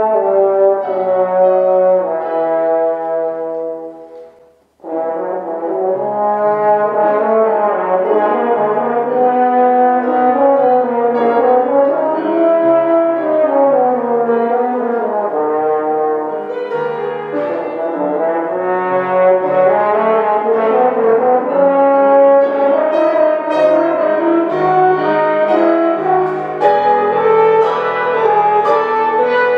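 Solo brass instrument playing a slow, lyrical melody in long held notes. The sound breaks off briefly about four seconds in, then the phrase resumes.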